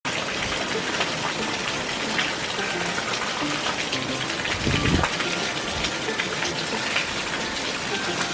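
Steady rushing of water with faint scattered ticks, and a dull thump about five seconds in.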